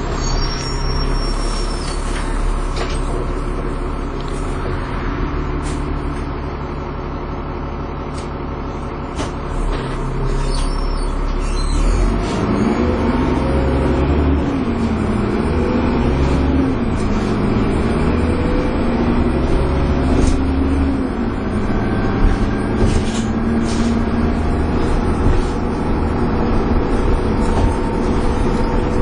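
Dennis Trident 2 double-decker bus heard from on board, its engine and drivetrain running. About twelve seconds in it grows louder, with a pitch that rises and falls repeatedly as the bus works through its driving.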